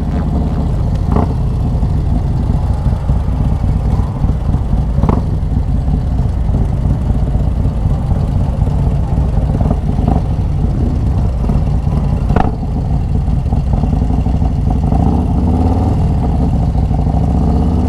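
Harley-Davidson Road Glide's Milwaukee-Eight V-twin, built up with a Screamin' Eagle 128 kit and a Khrome Werks 2-into-1 exhaust, running steadily at riding speed, heard on board the moving bike. A few sharp clicks stand out, about a second in, around five seconds, and near the twelve-second mark.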